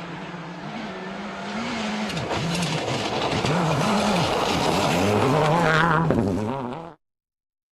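Mitsubishi Lancer WRC05 rally car's turbocharged four-cylinder engine at full racing pace, its revs rising and dropping again and again through gear changes. The sound cuts off suddenly near the end.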